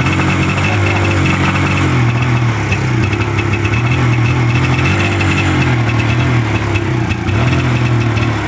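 Motorcycle engine running at idle, its pitch rising and falling slightly as the throttle is eased open and shut, with a steady light ticking over the engine sound.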